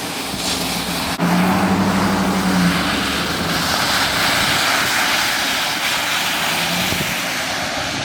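A car driving, with its engine running under a steady hiss of tyre and road noise; a sharp click about a second in, then the engine hum comes up steady for a second and a half.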